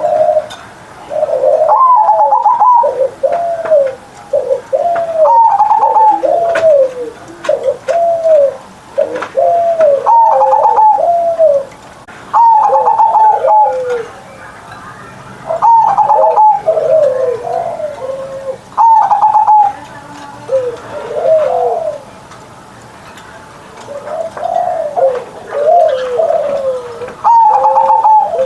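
Zebra dove (perkutut) singing its full, big-voiced cooing song. Phrase after phrase opens on a higher note and runs down into a string of lower, rolling coos, a new phrase every two to four seconds.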